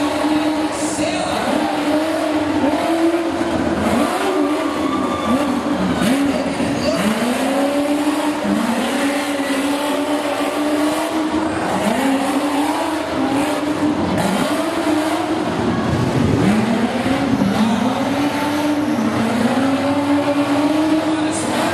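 Off-road race truck's engine revving hard, its pitch climbing and dropping again and again as the throttle is worked on and off over the course.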